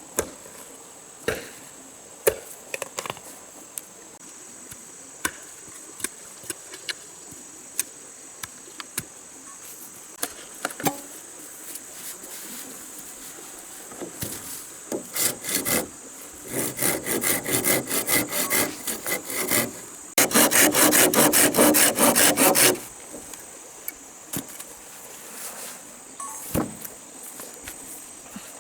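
Wood being worked by hand: scattered knocks and taps, then rhythmic saw strokes cutting through wood, fastest and loudest for a few seconds past the middle. A steady high drone of rainforest insects runs underneath.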